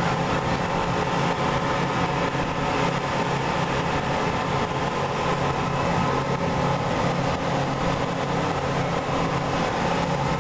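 A speedboat's three engines running steadily at speed, heard from on board: an even engine hum with a constant rush of wind and water, no change in pitch or level.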